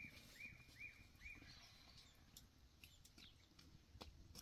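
Faint bird calls: a run of short, repeated chirps, about two a second, that stop about a second and a half in, with a few faint clicks.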